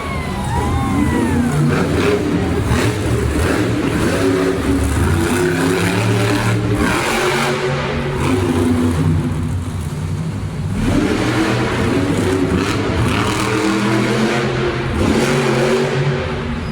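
Monster truck engines revving hard and loud, their pitch repeatedly rising and falling as the drivers work the throttle. The engines are supercharged V8s.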